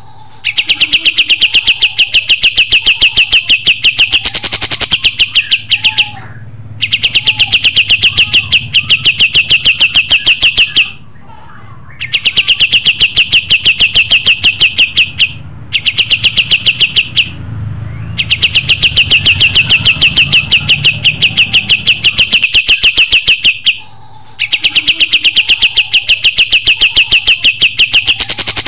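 Kapas tembak songbird singing long, rapid trills of identical sharp notes, many per second. Each run lasts a few seconds and breaks off for a brief pause before the next. Fainter chirps from other birds and a low rumble sit underneath.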